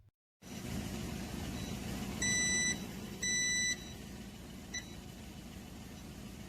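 Two half-second electronic beeps about a second apart, over the steady whir and hum of a 2000 W pure sine wave inverter's cooling fan. The inverter is loaded with an electric kettle that it will not heat.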